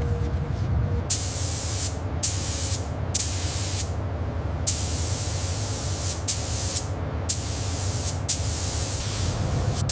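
Air spray gun hissing in a series of short bursts, each lasting about half a second to a second and a half, over a steady low hum.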